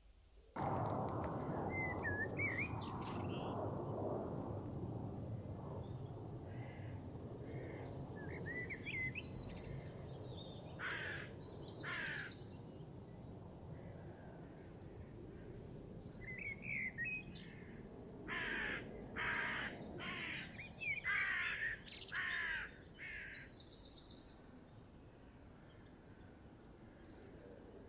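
Crows cawing in two bouts: a couple of caws about 11 seconds in, then a run of about seven caws between roughly 18 and 23 seconds. Small birds chirp in short rising notes in between, over a steady low rushing noise that starts suddenly at the beginning and drops away a few seconds before the end.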